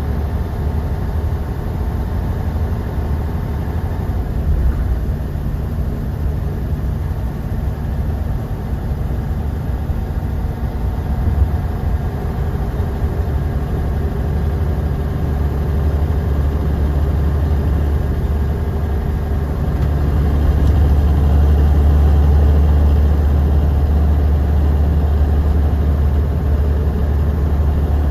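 Interior of a moving bus: steady low engine rumble with road noise. The rumble grows louder and deeper about two-thirds of the way through.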